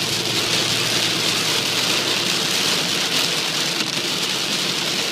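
Heavy rain pouring down on a moving pickup truck, a steady dense hiss, over the low steady rumble of the truck driving on the flooded road.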